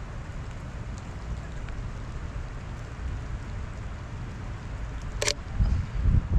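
Rain and wet snow pattering and dripping around the camera, under a steady low rumble of wind on the microphone that grows louder and gustier near the end. A brief sharp sound about five seconds in.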